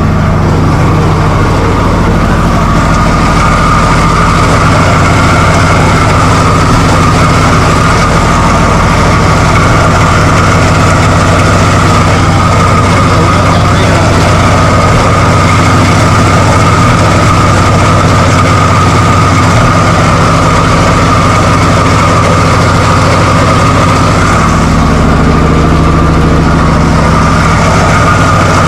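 Chrysler 245 Hemi straight-six on a Holley 350 two-barrel carburettor, running steadily at idle, with a slight change in its note near the end.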